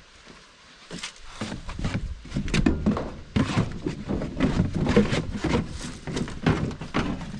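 Sandpaper being rubbed by hand over a truck's body filler in quick, irregular scratchy strokes. It starts about a second in and keeps going.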